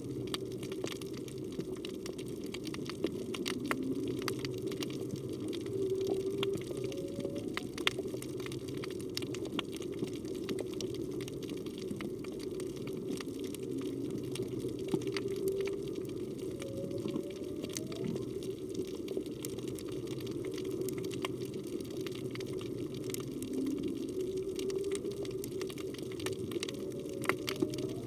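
Underwater ambience: a steady low rush of water with scattered sharp clicks and crackles. Several times, faint short rising moans come through, whale calls that the recordist takes to be a humpback's.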